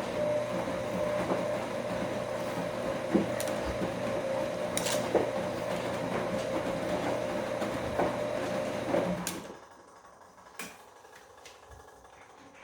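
Bosch washing machine's motor turning the drum during a wash cycle, a steady whine with a few knocks as the load tumbles. It stops about nine seconds in as the drum pauses between turns.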